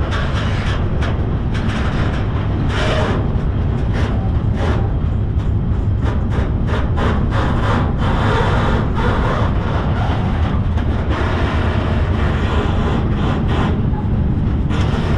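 Freight train rolling, heard from aboard a car: a steady low rumble with frequent irregular clanks and rattles.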